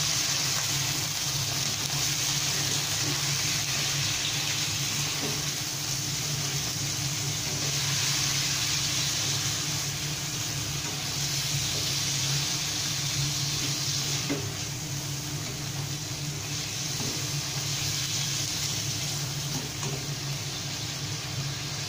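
Baby squid frying in a hot nonstick wok with onion and garlic: a steady sizzling hiss as their juices cook off, with a low steady hum underneath and a few light spatula scrapes.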